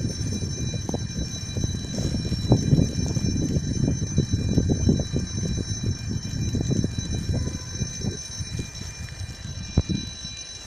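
A train rolling past: a continuous low rumble with frequent irregular knocks of wheels over rail joints. It dips briefly near the end.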